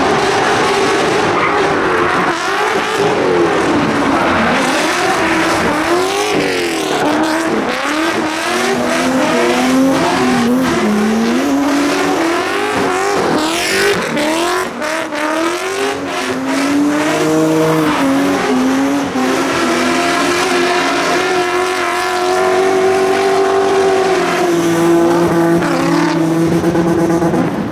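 Rally car engine revving hard, its pitch climbing and dropping again and again through gear changes and throttle lifts, then held at steady high revs for several seconds near the end, with some tyre squeal as it slides.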